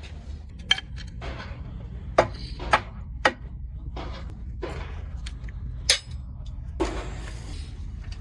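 Metal tools and engine parts being handled: several sharp metallic clinks, the loudest about two seconds in and again near six seconds, with short scraping and rustling between them, over a steady low hum.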